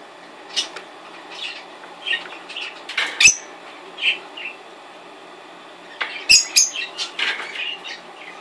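Fischer's lovebirds chirping in short, scattered high calls. Two sharp, louder bursts come about three and six seconds in.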